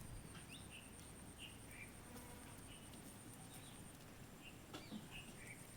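Faint bird chirps, short and scattered, about a dozen over a few seconds, with a steady high-pitched whine underneath.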